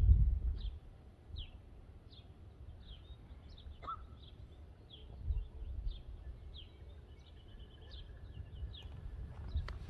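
Small birds chirping, many short high notes at about two a second, with a brief trill late on. Low rumbles come and go underneath, the loudest right at the start.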